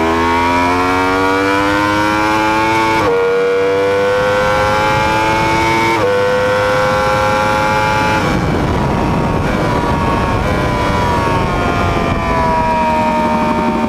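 Yamaha R1 (RN32) crossplane inline-four at full throttle, its note climbing steadily and dropping sharply at two quick upshifts about three and six seconds in as the bike accelerates to about 240 km/h. From about eight seconds in the throttle closes and the note falls with a few small steps as the bike brakes and downshifts, under heavy wind rush.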